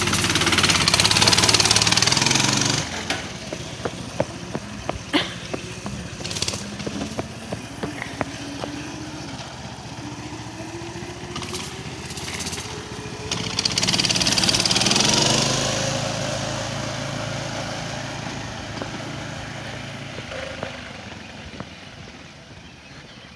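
Coleman CT200U-EX mini bike's small single-cylinder four-stroke engine running under way. It is loud for the first few seconds, then drops off as it moves away. From about ten seconds in it rises in pitch and grows louder as it comes back past, then fades off.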